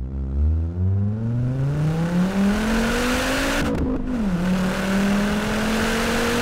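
Volvo S60R's turbocharged inline-five accelerating hard, heard from inside the cabin: the engine note climbs steadily, drops about four seconds in as the driver shifts up a gear, then climbs again, over a loud rushing hiss.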